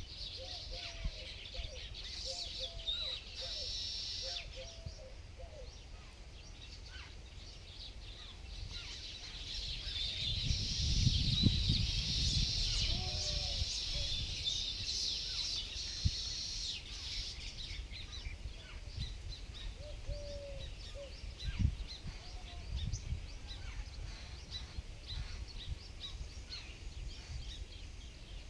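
Wild birds chirping and calling, many short high chirps throughout, with a quick series of short lower calls in the first few seconds. A low rumble swells in the middle, with a single sharp click in it.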